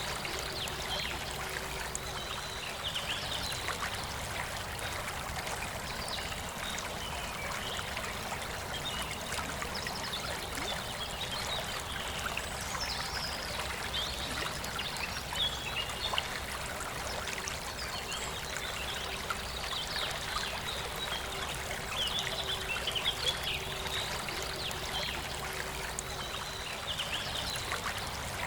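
Forest river flowing steadily, with birds singing short phrases every few seconds over the water.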